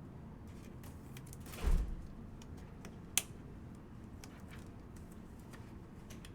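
Trading cards and card supplies being handled on a table: scattered light clicks and taps, a dull thump about a second and a half in and a single sharp click about three seconds in.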